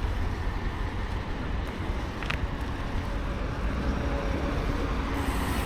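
Wind buffeting the action-camera microphone as a steady low rumble with a haze of noise over it, and one short click a little over two seconds in.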